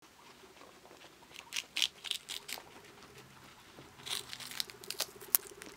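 Guinea pigs biting and chewing crisp chicory leaves: two bouts of crunching and tearing, the first about a second and a half in, the second near the end.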